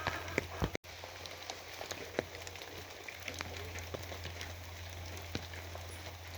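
Steady rain falling, with many individual drops landing as sharp ticks over an even hiss and a steady low hum beneath. The sound cuts out completely for a split second just under a second in.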